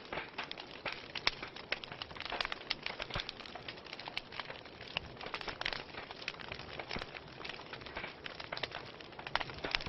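Wood fire in a fireplace crackling: irregular sharp snaps and pops, several a second, over a steady soft hiss of burning.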